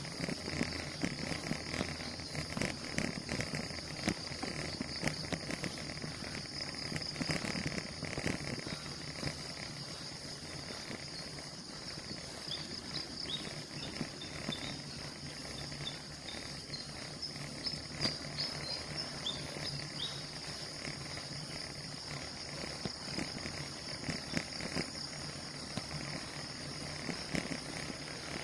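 Insects chirring steadily at a high pitch, with small chirps through the middle, over a constant low rumble and rattle of road and wind noise from riding.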